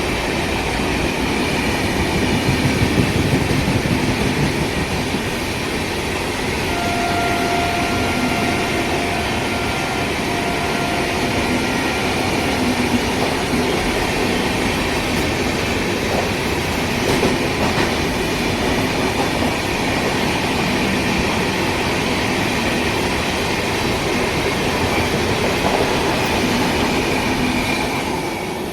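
Train running on the rails: a loud, steady rumble with the clatter of wheels over the track. A faint steady tone sounds for a few seconds about a quarter of the way in.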